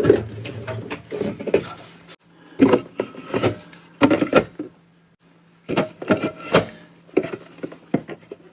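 Cans of pop being set into a small plastic mini fridge: a run of irregular knocks, clinks and scrapes as they are placed and shuffled on the shelf, with a short pause about halfway through.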